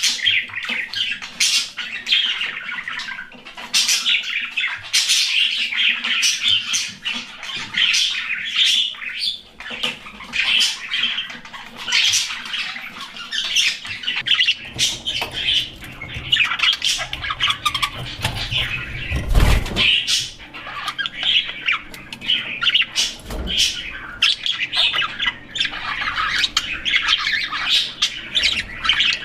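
Budgerigars chirping and chattering continuously in quick, overlapping calls, with one brief thump about 19 seconds in.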